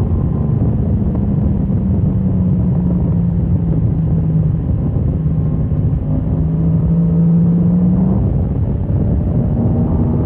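Motorcycle engine running hard at track speed over heavy wind rush. The engine note climbs slowly, breaks off about eight seconds in, then picks up again.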